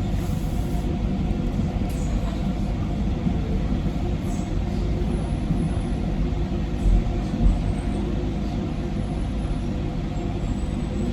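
Docklands Light Railway train running between stations: a steady low rumble of wheels on rail and traction motors, with two short thumps about seven seconds in.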